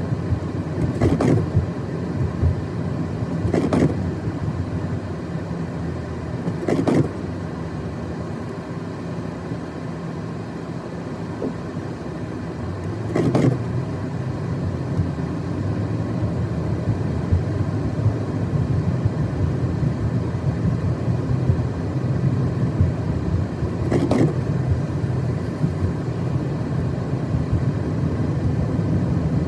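Car driving through snow: steady tyre and engine rumble, with five brief sharp sounds spaced irregularly through it.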